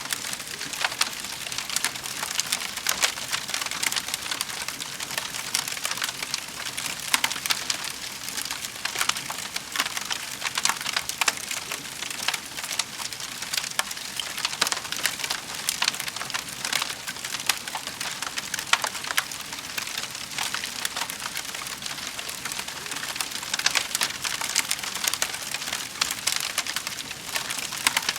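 Wood fire burning in a fireplace, crackling and popping constantly over a steady hiss.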